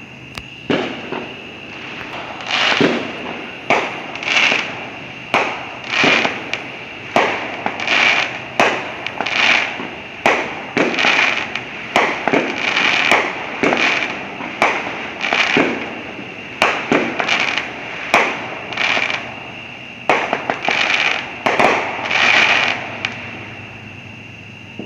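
Fireworks going off in a long string of sharp bangs, roughly one a second, each trailing off briefly. A steady high-pitched tone runs underneath.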